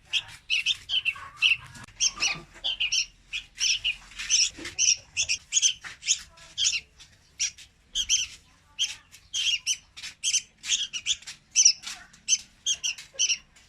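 Young red-whiskered bulbul calling: a fast, unbroken series of short, high chirps, about three or four a second.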